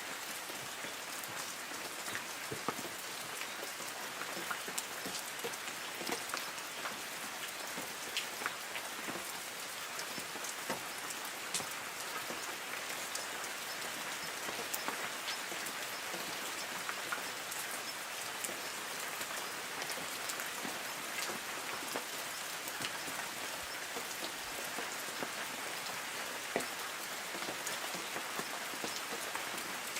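Light rain falling steadily on trees. It is a constant hiss, with many separate drops ticking on leaves.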